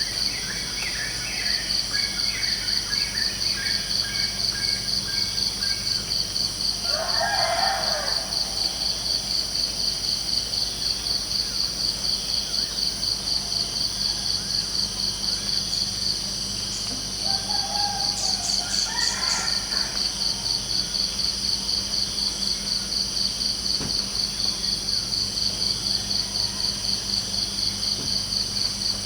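Crickets chirping in a steady, fast-pulsing high drone, with birds calling over it: a run of short calls in the first few seconds, then two brief louder calls about 7 seconds in and around 18 seconds.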